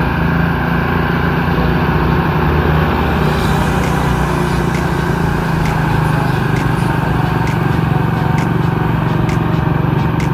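Truck engine running steadily under load, with a regular light clicking of about one and a half a second that starts about a third of the way in.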